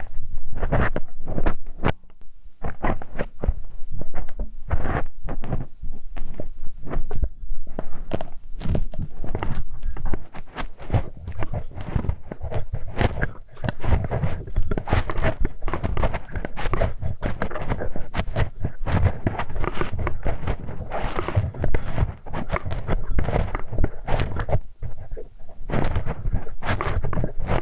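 Close-up ASMR ear-cleaning sounds: a hex key scraping, rubbing and knocking, a dense run of irregular scratches and dull thuds.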